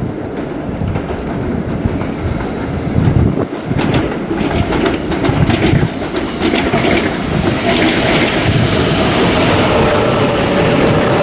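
Shinkansen train running on the station track, its rumble and rushing hiss growing louder, with a steady whine coming in about halfway.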